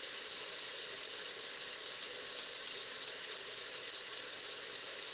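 Diced chicken sizzling steadily as it browns in the stainless steel inner pot of a Pampered Chef Quick Cooker.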